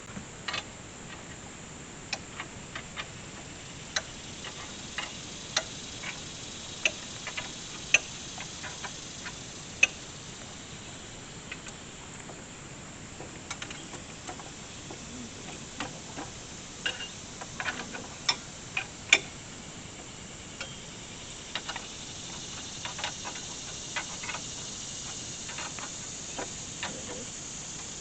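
Irregular sharp clicks and taps of metal parts and tools being handled while the chainsaw mill is adjusted, over a faint steady high hiss.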